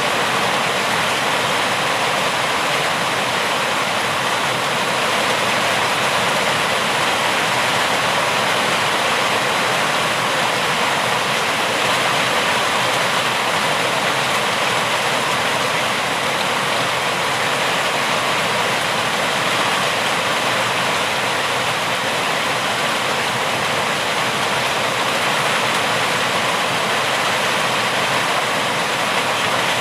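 Rain falling steadily: an even, unbroken hiss that neither builds nor fades.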